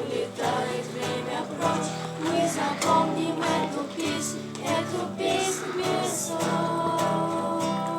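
A song sung to acoustic guitar, the guitar strummed under the singing voices.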